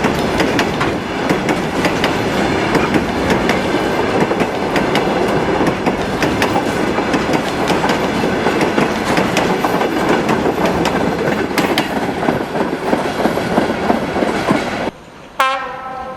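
Train rolling through the station, its wheels clattering and clicking over rail joints. About fifteen seconds in this stops abruptly, and near the end a horn sounds.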